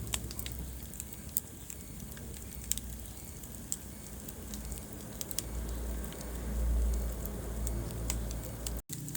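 Wood fire crackling in a fireplace: scattered sharp pops and snaps over a low, steady rumble of flame that swells about two-thirds of the way in. The sound cuts out for an instant near the end.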